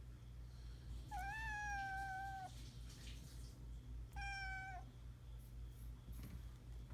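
Norwegian Forest Cat kitten meowing twice: a high, drawn-out meow followed a couple of seconds later by a shorter one.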